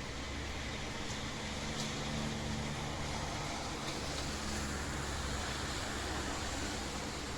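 Steady rain falling, an even hiss with a few faint drip ticks, over a low steady hum.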